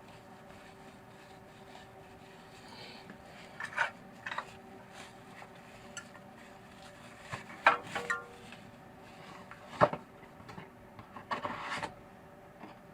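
Scattered clinks, knocks and scraping of hand tools and small metal engine parts being handled, the sharpest knocks about eight and ten seconds in, over a faint steady hum.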